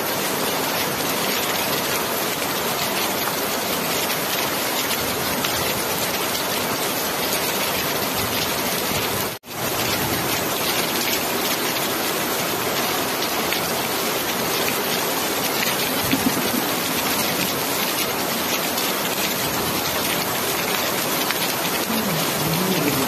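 Steady heavy rain falling, an even, unbroken hiss. The sound drops out for a split second about nine seconds in.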